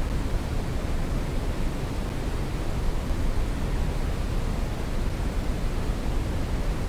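Brown noise: steady synthetic random noise, heaviest in the low bass and tapering off toward the highs, with no change throughout.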